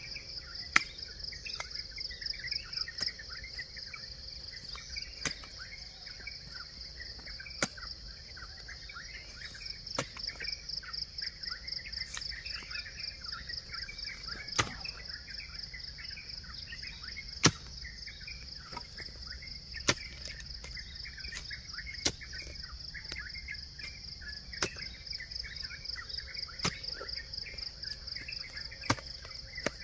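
A hand hoe chopping into soil, one sharp strike about every two and a half seconds, over a steady pulsing high insect trill and birds chirping.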